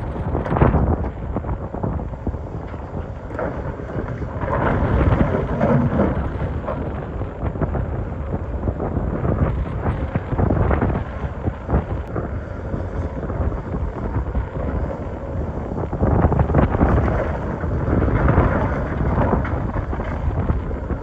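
Excavator working in rock: heavy engine running under load with a rumbling, grinding noise of rocks being dug and moved, swelling and easing every few seconds.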